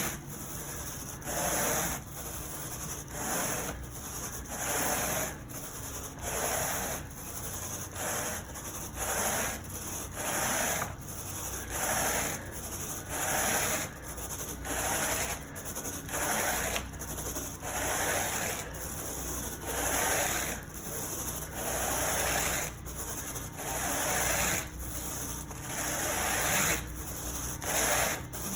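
Carpet rake being pushed and pulled through carpet pile, raking stroke after stroke at about one stroke a second, to agitate the fibres.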